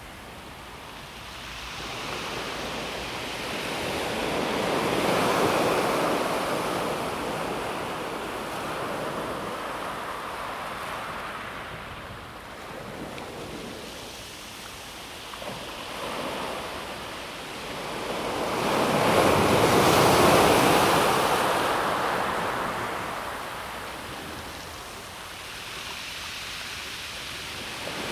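Calm sea waves breaking and washing over a pebble beach, swelling and falling back slowly: a larger wave about five seconds in and the loudest about twenty seconds in, with smaller ones between.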